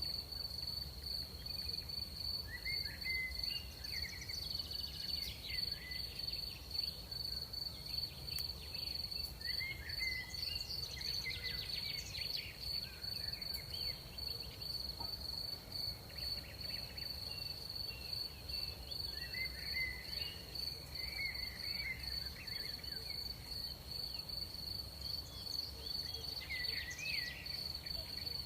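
Night insects, crickets, trilling without a break at one high pitch. Short chirping calls come and go every few seconds over a steady low rumble.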